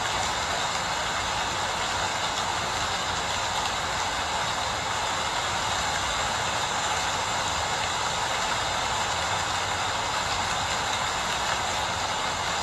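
Steady rainfall, an even hiss that holds at the same level throughout.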